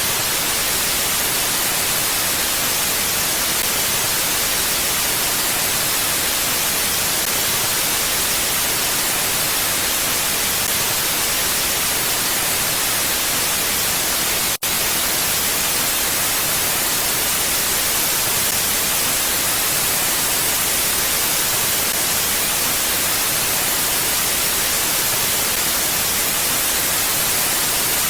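Steady mountain wind as a constant, even hiss with no gusts, bright in the upper range. It cuts out for an instant about halfway through.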